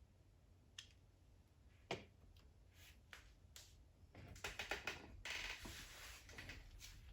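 Light clicks and taps of small objects being handled, a few scattered at first, then a denser run of clicks and rustling from about four to six and a half seconds in.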